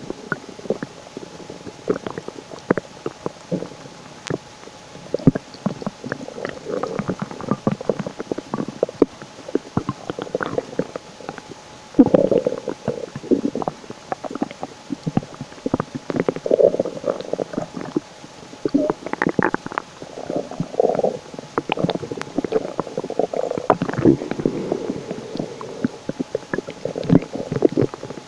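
A person's stomach gurgling and rumbling close to the microphone: irregular bubbling spells and short pops, loudest about twelve, sixteen, twenty and twenty-four seconds in.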